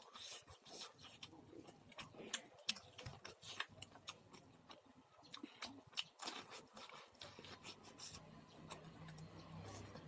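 Faint, irregular crunching and crackling of popcorn being chewed close to the microphone, many small clicks a second.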